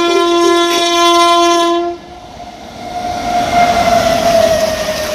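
Horn of a WAP-7 electric locomotive sounding one long, loud blast that cuts off about two seconds in, then the rising rush and rattle of the express train passing through at speed, with a tone that slides down as it goes by.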